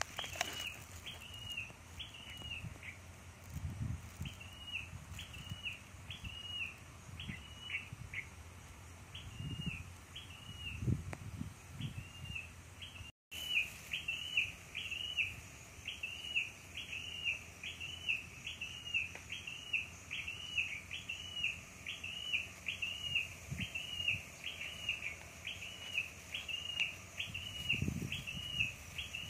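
A bird calling over and over: a short rising-then-falling chirp, repeated about one and a half times a second, with a few soft low thumps underneath.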